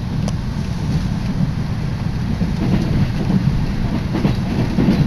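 JR Tokaido Line electric commuter train running at speed, heard from inside the carriage: a steady low rumble of wheels on rails, with light clicks over the rail joints in the second half.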